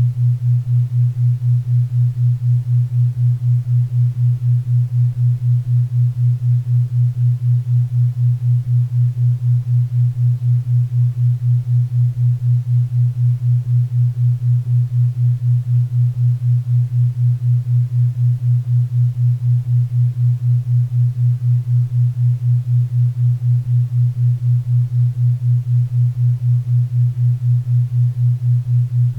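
Low tone, a little above 100 Hz, pulsing evenly about four times a second: a 4 Hz theta-wave beat, over a faint bed of pink and brown noise.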